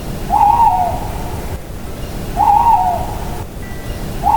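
Owl hooting three times, about two seconds apart, over a steady low background noise.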